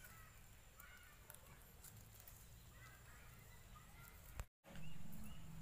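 Faint outdoor ambience with scattered short bird calls and a few light clicks. The sound drops out for a moment about four and a half seconds in, then comes back with a low steady hum.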